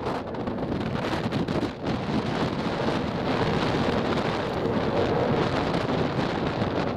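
Strong wind buffeting the microphone: a loud, steady rushing noise with gusty rumble.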